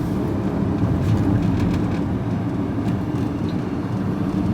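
Vehicle engine and road noise heard from inside the cab while driving: a steady low rumble with a constant hum.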